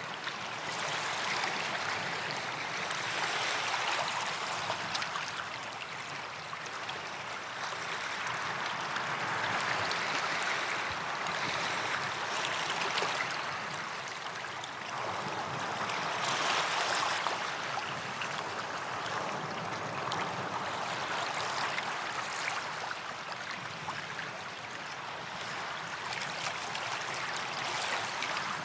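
Small waves breaking and washing up a sandy beach, the hiss of surf swelling and easing every few seconds.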